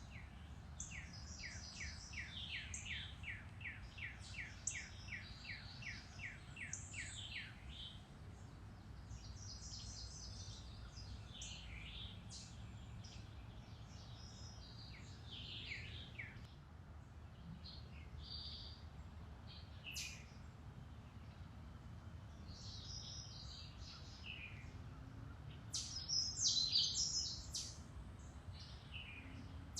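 Several woodland songbirds singing: a run of about fifteen quick, evenly spaced downward-sweeping notes over the first seven seconds, then scattered chirps and short phrases, with the loudest burst of song near the end. A steady low rumble runs underneath.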